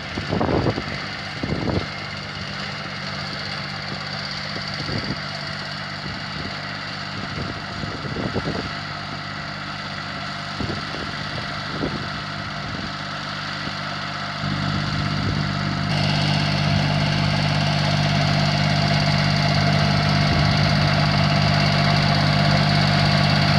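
An engine running steadily, with a few short knocks over the first several seconds. It gets louder in two steps, about 14 and 16 seconds in.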